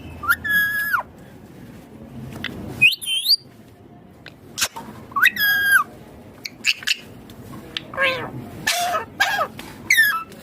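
Indian ringneck parakeet calling: short, high-pitched calls spaced a couple of seconds apart, then a quicker run of several calls near the end.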